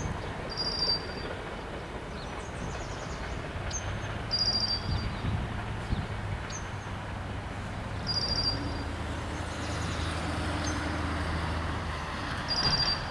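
Low, steady rumble of a CSX freight train passing, with a deeper hum that strengthens from about four seconds in. Over it a bird repeats a short, high trill about every four seconds, with single chirps in between.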